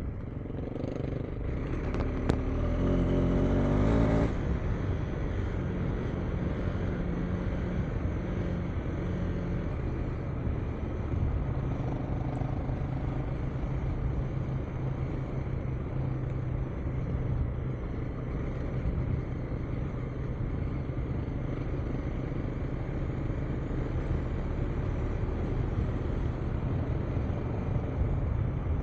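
KTM 390 Enduro R's single-cylinder engine running under way, picking up briefly a few seconds in and then holding a steady pace.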